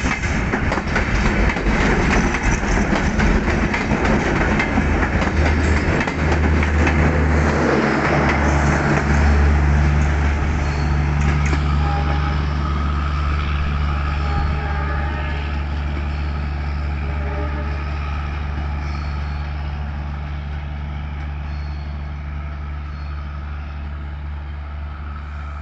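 Express passenger train passing through at speed: wheel-on-rail noise as the last coaches go by, then a steady low drone from the departing rear of the train that fades as it draws away.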